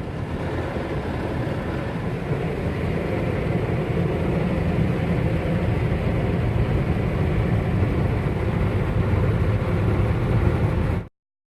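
Automatic tunnel car-wash machinery heard from inside the car: a steady low rumble with a rushing hiss, growing slightly louder, then cutting off suddenly near the end.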